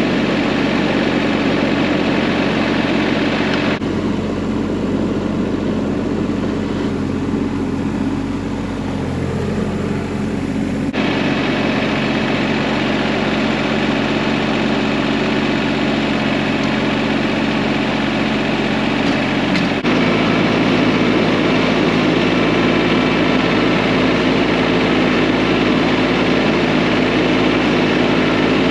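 Vehicle engine running steadily, changing abruptly in pitch and tone about 4, 11 and 20 seconds in.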